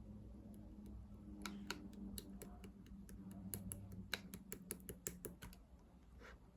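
Mixed slime being worked by hand, giving irregular sticky clicks and pops, densest through the middle and thinning out near the end, over a faint steady low hum.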